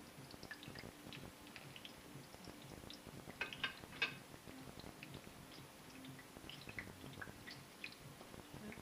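Oil heating in a frying pan, crackling faintly with scattered small clicks. There is a couple of louder clicks about three and a half to four seconds in.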